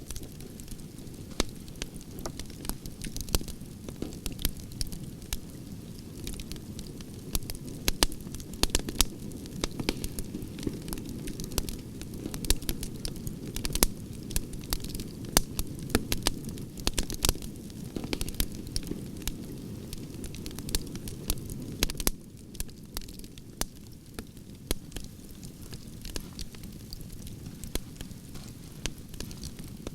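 Wood fire of burning logs crackling, with sharp pops and snaps over a steady low rumble of flames; the crackles are busiest in the middle and thin out a little after about 22 seconds.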